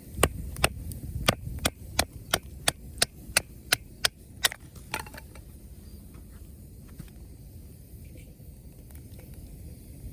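Wood being chopped: about a dozen sharp strikes at roughly three a second, stopping about five seconds in.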